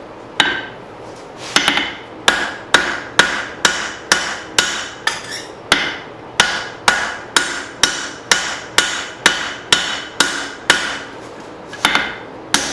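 Hand hammer blows on hot leaf-spring steel over an anvil, about two a second, each with a short metallic ring, as the hatchet blade is drawn out thinner. A pause of about a second comes near the end before the blows resume.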